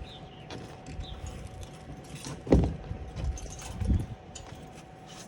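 Light metallic clicks and knocks of hardware being handled, with a heavier thump about two and a half seconds in and another about four seconds in, over a faint steady hum.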